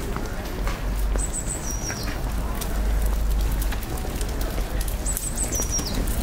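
A bird sings the same high, thin phrase twice, a few seconds apart: a held whistle that steps down in pitch and then slides lower. Under it run a steady low rumble and light footsteps.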